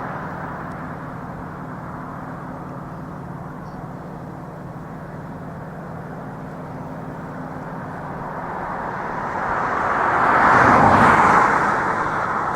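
Road traffic: a steady engine hum, then a vehicle passing close by, swelling to its loudest about eleven seconds in and falling away again.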